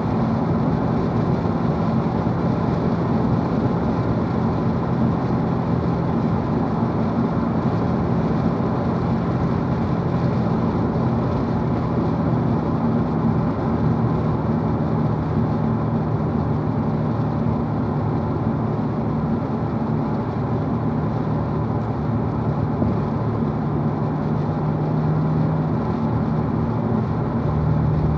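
2016 Corvette Stingray Z51's 6.2-litre V8 cruising in fourth gear at about 2,300 rpm on light throttle: a steady low engine drone over tyre and road noise, heard inside the cabin.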